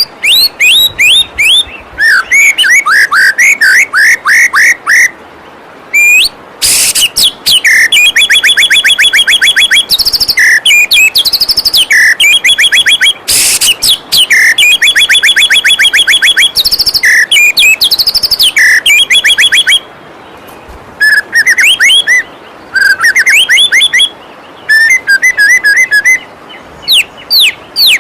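White-rumped shama (murai batu) singing a loud, varied song of fast trills of repeated notes and quick rising and falling whistles, with two harsh rasping notes in the middle, over the steady rush of a waterfall.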